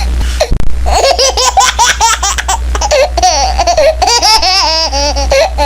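High-pitched laughter in rapid, repeated bursts, played as a meme sound effect over a steady low hum.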